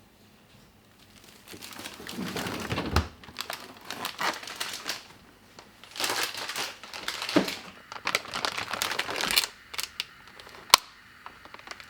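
Packaging crinkling and rustling as it is handled, in several bursts, with one sharp click near the end.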